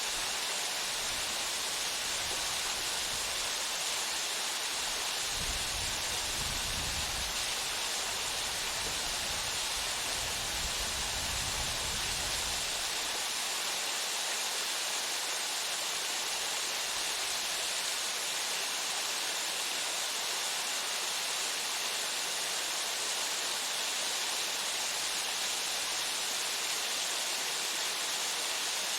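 Waterfall pouring steadily: an even, unbroken rush of falling water with most of its sound in the upper range.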